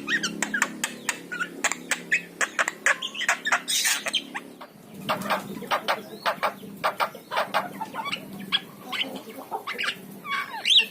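Javan myna (jalak kebo) chattering: a dense, rapid string of sharp clicks and short whistled and gliding notes, with a short lull about halfway through.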